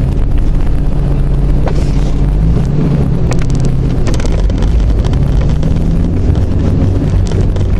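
1991 Jeep Cherokee's 4.0-litre inline-six running while driving, heard from inside the cabin, its engine note shifting about two and a half seconds in. Scattered clicks and rattles, mostly in the middle.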